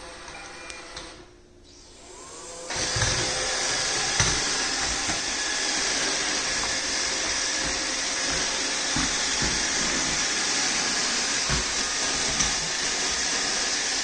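iRobot Roomba 614 robot vacuum starting up about three seconds in, then running steadily: its suction motor and brushes whirring, with a few short low knocks.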